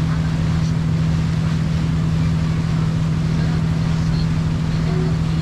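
Sightseeing boat's engine running at a steady cruise, a constant low drone with one strong unchanging hum.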